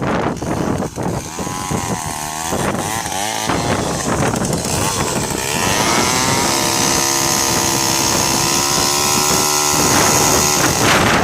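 Chainsaw engine revving unevenly, then rising about five and a half seconds in and held at high speed until near the end.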